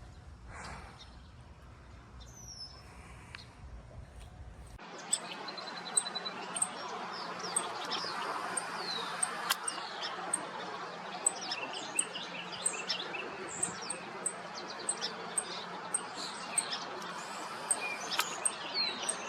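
Wild birds chirping and calling, many short high chirps and quick sweeping notes over a steady background hiss. About five seconds in, the sound changes abruptly from a quieter stretch with a low rumble to this fuller chorus.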